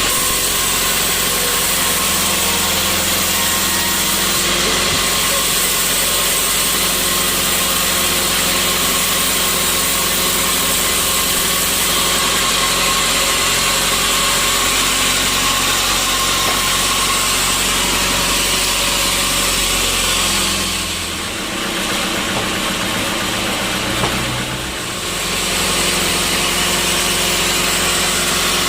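Sawmill machinery running steadily, a motor hum under a constant hiss. The sound drops for a few seconds about two-thirds of the way through, with a single short knock, then comes back to its steady level.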